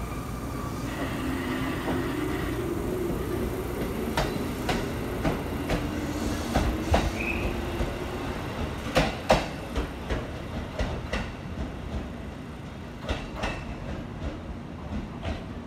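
JR Kyushu 787-series electric train running along a platform track at low speed, its motors humming, then its wheels clacking sharply over rail joints, the loudest clacks about halfway through, fewer as it draws away.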